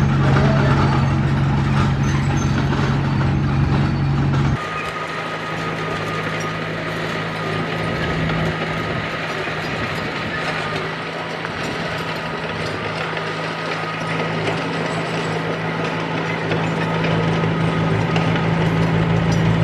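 Heavy diesel engine of a construction machine running steadily under work, with an abrupt drop in level and a change of engine note about four and a half seconds in.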